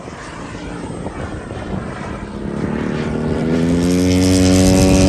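Propeller engine of a radio-controlled Extra 300 SP aerobatic plane on its takeoff run. It rises in pitch and grows louder as it comes close, from about halfway in.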